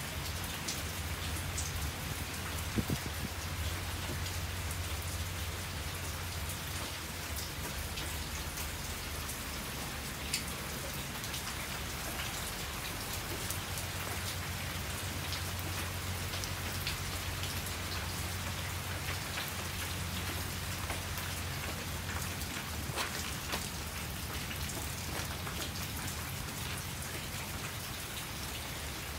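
Steady typhoon rain falling, with scattered sharper drop hits throughout.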